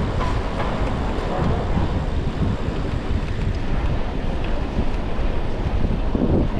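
Wind buffeting a chest-mounted GoPro's microphone while cycling: a steady, gusty low rumble, with street traffic noise underneath.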